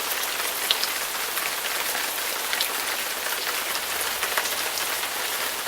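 Heavy rain pouring steadily, a dense hiss with scattered ticks of individual drops.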